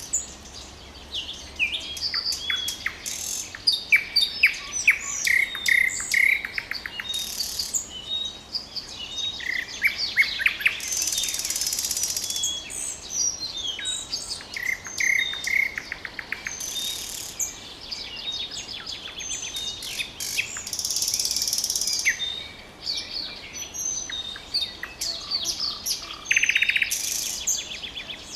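Nightingale singing: a run of varied phrases made of rapidly repeated clicking notes, clear whistled notes and short buzzy rattles, with brief pauses between phrases.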